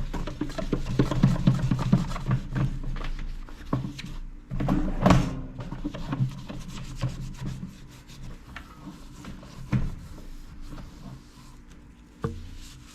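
Toothbrush scrubbing baking soda paste on the outside of a toaster oven: quick back-and-forth rubbing strokes, heavier in the first half and lighter later, with a couple of single knocks.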